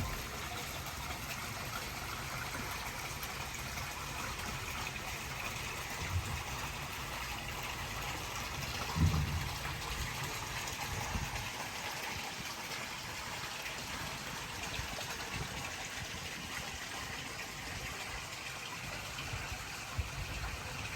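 Steady rushing water, with a brief low thump about nine seconds in.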